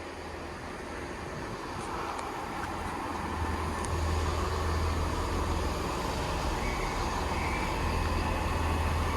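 Diesel multiple-unit train's engines running with a steady low drone, growing louder about three to four seconds in.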